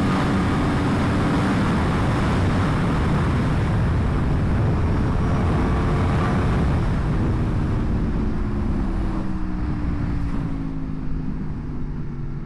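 Aprilia Tuono motorcycle running hard at speed with heavy wind rush. From about halfway through, the engine note steadily falls and the sound eases off as the bike slows.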